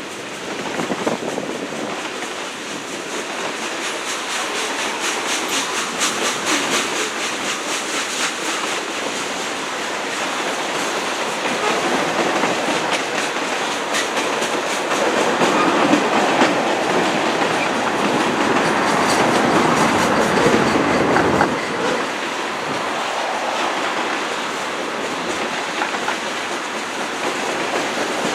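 A train rolling past at close range, its wheels clicking steadily over the rail joints, growing somewhat louder for several seconds past the middle.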